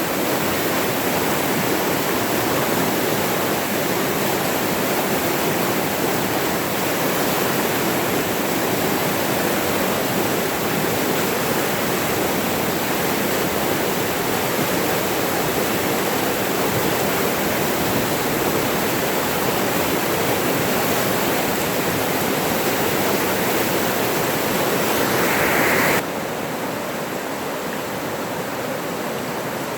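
Running water rushing steadily in a forest stream. About 26 seconds in it cuts abruptly to a quieter, duller rush.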